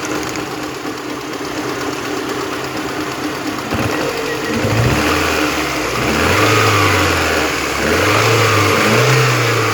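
VAZ-2112 16-valve four-cylinder engine running with the spark plug wire pulled off the second cylinder, its speed rising and falling a few times in the second half. With that cylinder dead the knock goes away, which the owner takes for worn connecting-rod bearings or a piston pin in that cylinder.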